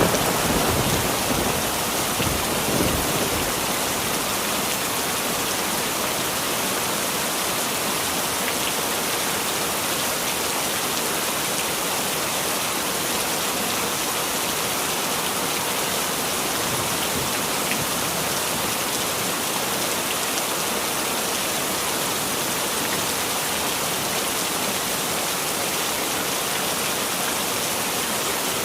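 Heavy rain falling steadily. The tail of a thunderclap rumbles away over the first few seconds.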